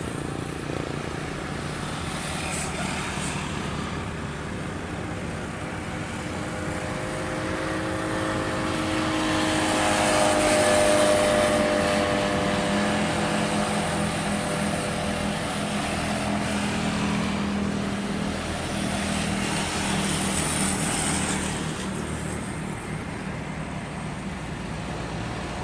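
Jet airliner engine noise, a steady rushing with faint whining tones, swelling to its loudest about halfway through and then easing off.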